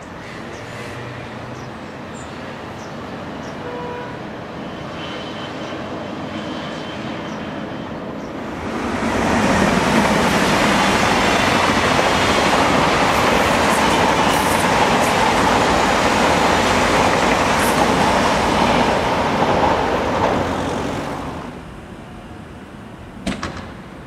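A distant train running at first, then a double-deck electric suburban train passing close by for about twelve seconds, loud and steady, before it fades out. Near the end come a couple of sharp short knocks.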